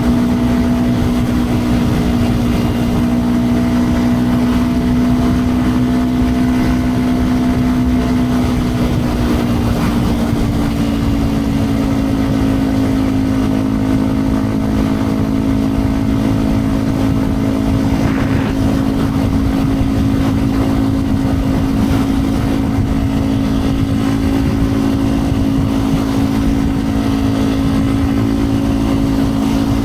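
2010 Yamaha WR 125 X's single-cylinder four-stroke engine, fitted with a Yoshimura exhaust, running at steady riding revs. The pitch rises a little about ten seconds in and then holds steady.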